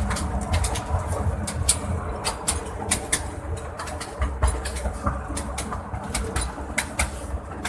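Small joy train running on its track: a steady low rumble with quick, irregular rattling clicks.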